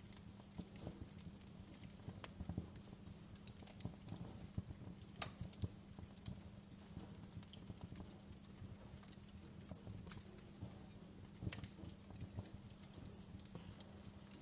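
Wood fire crackling in a fireplace: irregular snaps and pops over a steady low hum.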